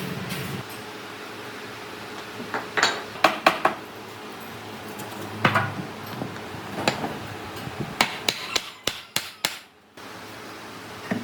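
Hammer striking in irregular sharp knocks, single and in quick clusters of two or three, over a steady background hiss.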